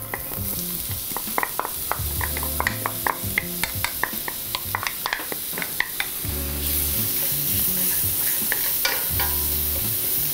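Diced shallots sizzling in hot olive oil in a stainless steel sauté pan, while a wooden spoon taps and scrapes them out of a bowl and stirs them. The sizzle grows fuller about six seconds in.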